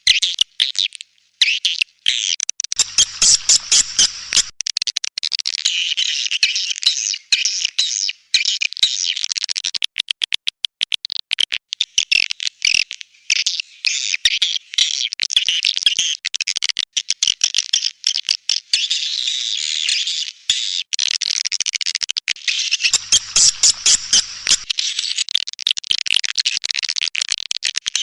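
Swiftlet calls: fast, high-pitched trains of clicks and twittering chirps, run together almost without pause. This is a swiftlet lure recording of the kind played to draw swiftlets into a nesting house.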